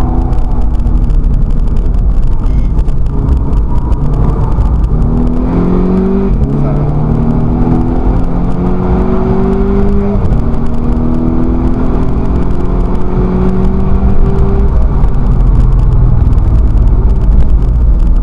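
Volkswagen Scirocco race car's engine, heard from inside the cabin, accelerating hard through the gears. Its pitch climbs, drops with an upshift about six seconds in and again about ten seconds in, then climbs once more, over heavy road and wind rumble.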